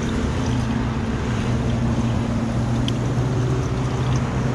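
A steady low mechanical hum over a constant rushing noise.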